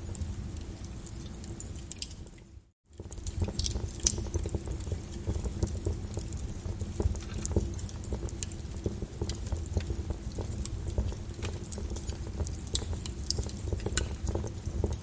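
Wood fire crackling in a fireplace: frequent sharp pops and snaps over a low rumble of the flames. The sound cuts out briefly about two and a half seconds in, then comes back.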